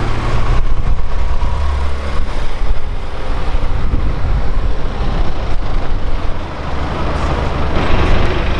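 A car engine and exhaust running loudly in street traffic, a deep steady rumble that eases briefly near the end and then comes back.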